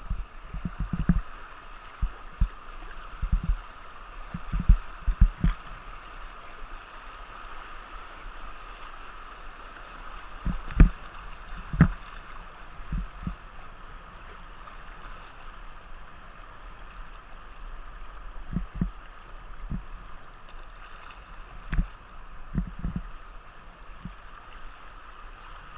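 Steady rush of moving river water around a kayak, with irregular low thumps scattered through it, two sharper knocks about eleven and twelve seconds in.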